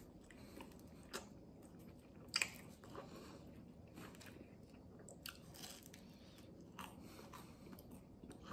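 A person chewing pizza crust, faint and close, with irregular small crunches and mouth clicks. The loudest crunch comes about two and a half seconds in.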